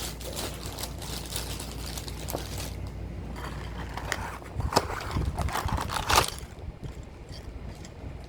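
Small plastic parts and packaging being handled: rustling and scraping, with a few sharp clicks about five and six seconds in.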